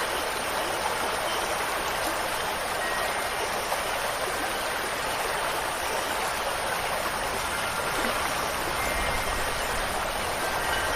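Steady rushing of flowing water, like a stream or small waterfall, with a few faint high chime tones ringing through it. A low rumble rises beneath it near the end.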